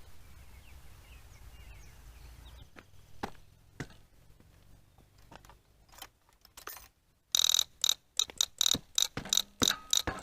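A few faint knocks, then about three seconds of loud, sharp metallic clicking in quick, irregular strokes, like a ratchet wrench being worked on a motorcycle engine.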